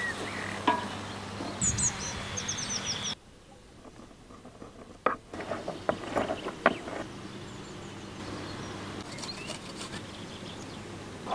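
Quiet outdoor cooking ambience: a short run of high, falling bird chirps about two seconds in, then a few scattered sharp clicks and knocks a few seconds later, over a steady low background hum.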